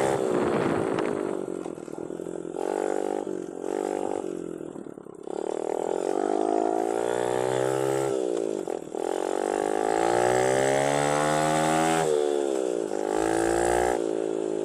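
Engine of a 110cc semi-automatic mini dirt bike being ridden, revving with two short blips about three seconds in, then twice climbing steadily in pitch and falling away sharply as the throttle closes.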